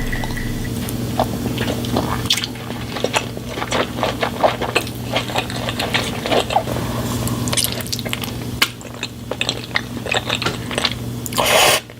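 Close-miked mukbang eating sounds: chewing and biting with wet, squishy smacks and crunches in quick, irregular clicks, over a steady low hum. A short, loud noisy burst comes just before the end.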